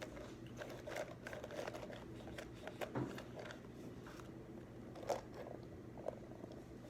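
Quiet desk-study sounds: scattered small clicks, taps and rustles of pens and paper, a few a little louder, over a steady low room hum.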